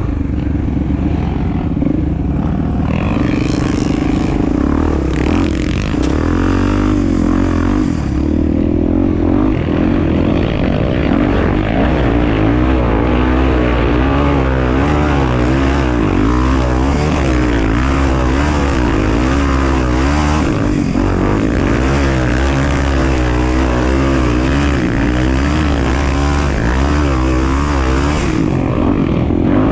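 Honda Tornado 250's single-cylinder four-stroke engine running under way off-road, its pitch rising and falling again and again as the throttle is worked.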